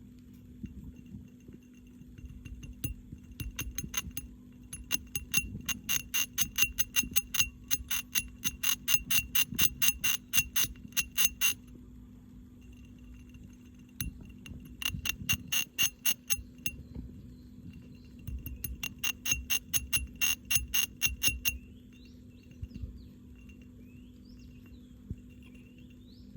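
Campbell's dwarf hamster gnawing on something hard, in three bouts of fast, ringing clicks, each several seconds long.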